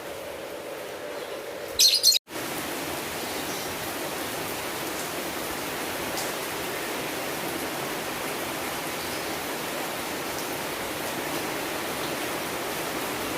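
Steady rain hiss that takes over after a brief dropout about two seconds in. Just before the dropout comes a short, loud, high-pitched burst, and for the first two seconds a different steady background with a low hum is heard.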